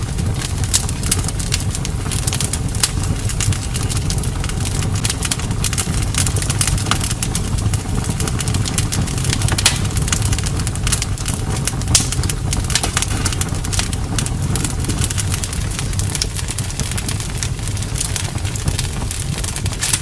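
Bonfire burning: a steady low rumble of flames under frequent, irregular sharp crackles and pops of burning wood.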